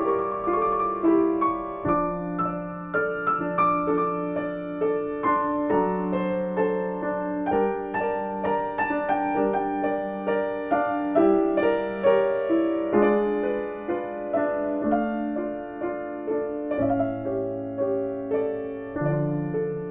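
Piano music: a slow, gentle piece of chords and melody, with many notes sounding over one another.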